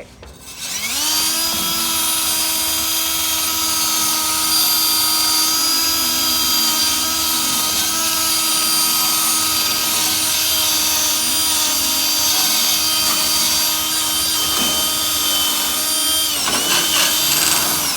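Handheld electric power tool running at a steady high speed: its motor winds up about a second in, holds a steady whine, and winds down near the end.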